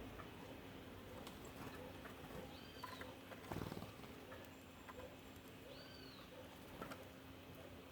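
Faint songbird calls: two short, high, arched notes about three seconds apart, with scattered soft clicks and rustles between them.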